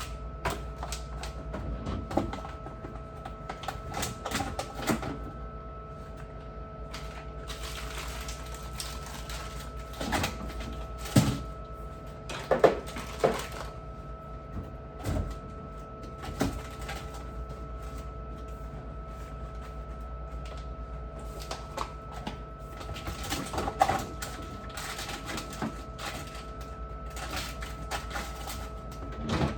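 Scattered knocks, clicks and clatters of things being handled and set down, thickest in the middle and again later on, over a steady hum.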